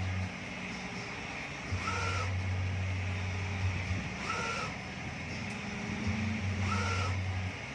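Mimaki UJP-3042MkII EX UV flatbed printer's print-head carriage shuttling back and forth as it prints: a low motor hum on each pass and a short whine at each turnaround, repeating about every two and a half seconds.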